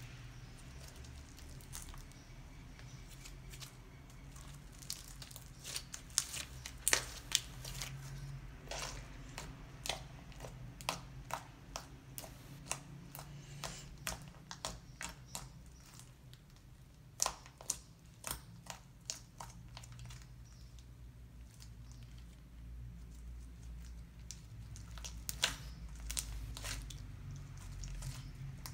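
Homemade slime being squeezed and kneaded by hand, giving irregular squishy pops and crackles as trapped air escapes, in uneven clusters.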